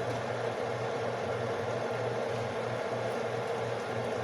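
A steady low hum under an even whir, unchanging throughout: the running noise of an electric appliance such as a fan.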